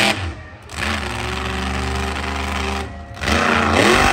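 Monster truck engine running hard: it drops off briefly just after the start, holds a steady high rev, dips again about three seconds in, then revs up sharply near the end.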